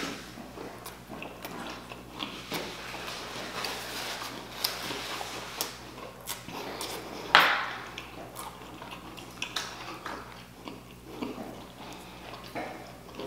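Close-miked chewing of a street taco: a run of short wet smacks and clicks from the mouth, with one louder smack about seven seconds in.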